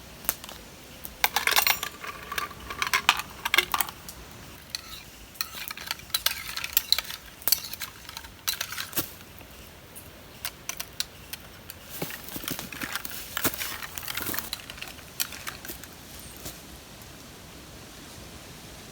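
Metal cookware and utensils clinking and scraping in irregular clusters, some strikes ringing briefly.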